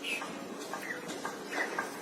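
Bulbul birds chirping: several short, high chirps, a few of them close together in the second half.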